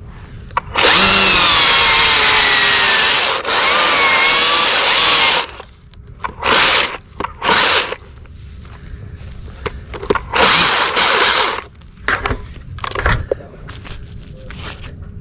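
Chainsaw running at full throttle and cutting into wood for about four and a half seconds, its pitch wavering under load, then short bursts of revving and cutting a few seconds apart.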